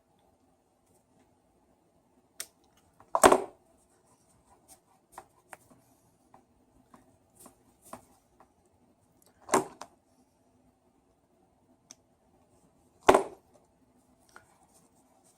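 A hand cutting tool bites three times on the drill's electrical cord wire, three short sharp snips several seconds apart, with light clicks of handling between them.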